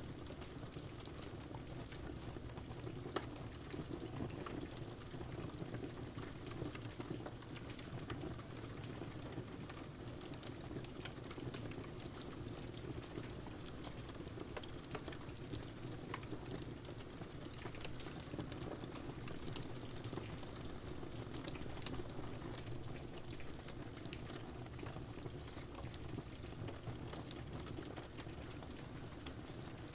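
Wood fire crackling in a fireplace, with scattered sharp pops (one louder about three seconds in), over a steady wash of rain.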